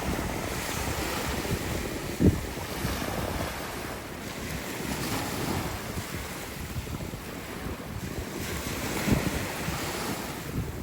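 Wind rushing over the microphone with a steady wash of rough-sea surf, and a few low thumps of gusts buffeting the mic, one about two seconds in and more near the end.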